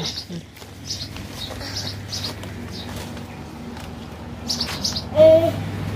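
Small birds chirping outdoors: short high chirps scattered through, over a faint steady hum. About five seconds in comes a brief, louder voice-like call.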